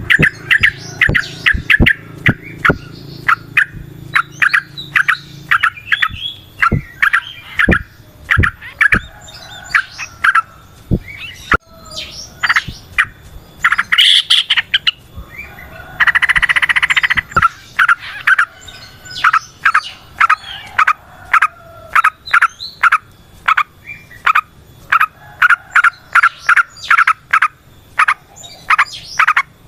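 Yellow-vented bulbul (trucukan) singing long runs of rapid, repeated chirping notes. A short buzzy rattle comes about sixteen seconds in.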